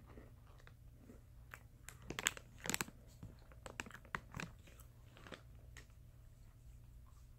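Crunchy Famous Amos cookies being bitten and chewed. A tight cluster of crisp crunches comes about two seconds in, then a few scattered ones.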